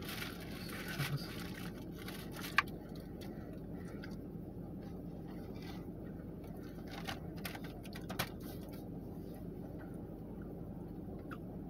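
Soft handling and eating of pull-apart glazed mini donuts: scattered faint crackles and ticks over a steady low room hum, with one sharp click about two and a half seconds in.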